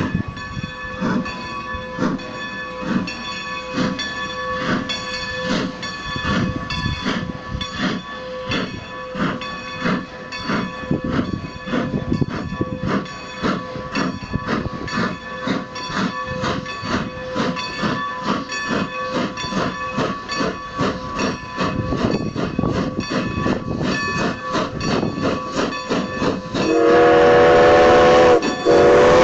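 Strasburg Rail Road No. 90, a 2-10-0 steam locomotive, with its bell ringing in a steady even rhythm. Near the end its steam whistle sounds loud, a chord of several pitches, with a short break before it carries on.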